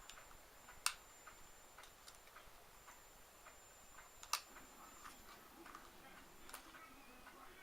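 Two sharp clicks, about a second in and about four seconds in, with fainter irregular ticks and light tapping between them, over a quiet background.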